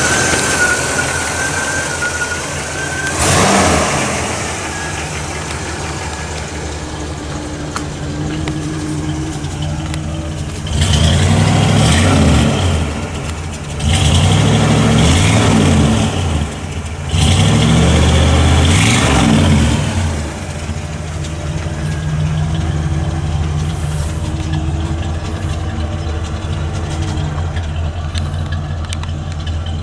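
1975 Cadillac Coupe DeVille's 500 cubic-inch V8 idling, blipped once about three seconds in, then revved three times in a row, each rev rising and falling back over two to three seconds before it settles to idle. A steady high whine stops about two seconds in.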